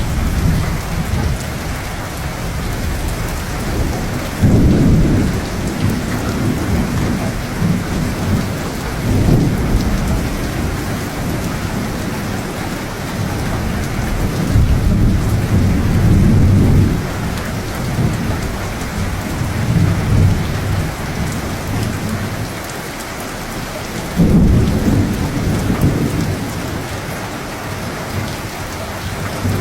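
Steady rain falling, with rolls of thunder rumbling again and again, the loudest claps starting about four seconds in and near the end.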